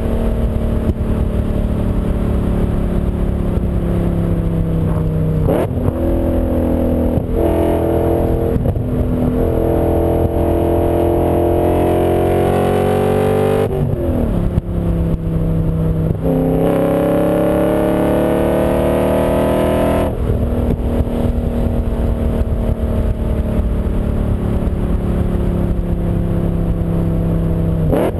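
BMW M5's V8 engine pulling hard, its pitch climbing in long sweeps broken by several gear changes. For the last eight seconds or so it runs at a steady pitch.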